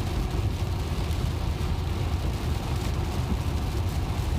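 Steady road noise heard inside a Tesla's cabin while it drives on a rain-soaked highway: a low tyre rumble with an even hiss of rain and spray.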